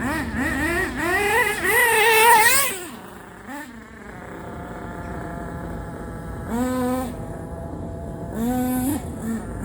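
Small .28 glow engine in a Thunder Tiger S2 model, revved up and down hard for about three seconds, then settling to a lower, quieter running note, with two short throttle blips near the end.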